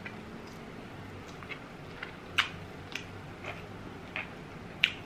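Close-miked eating sounds: chewing rotisserie chicken, with scattered wet mouth clicks and smacks. The sharpest come about two and a half seconds in and near the end.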